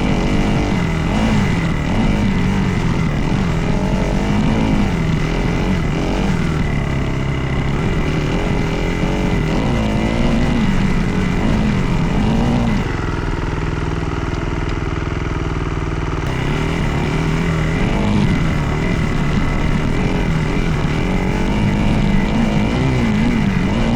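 Dirt bike engine being ridden, its pitch rising and falling repeatedly with the throttle, settling to a steady lower note for a few seconds around the middle before revving again.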